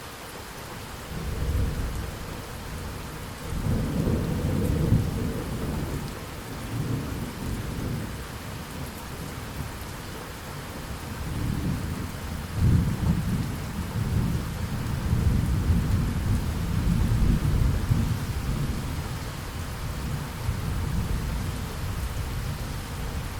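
Thunderstorm: steady rain hiss with rolling thunder. The thunder swells about a second in, rumbles more heavily around four seconds, and rolls on at length through the middle.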